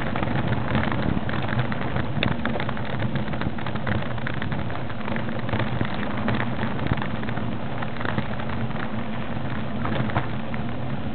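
A vehicle engine running steadily under a constant crackling, rattling noise.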